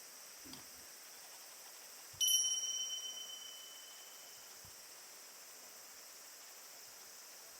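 A single light metallic ding about two seconds in, ringing clearly and fading over about a second and a half, over a faint steady hiss.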